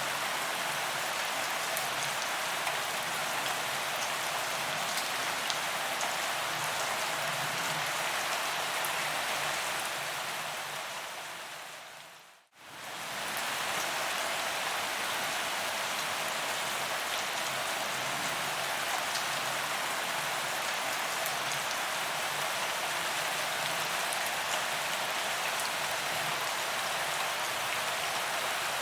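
Steady rain falling on a paved promenade, an even hiss with scattered drop ticks. About twelve seconds in it fades out to silence for a moment and straight back in, as at a loop join.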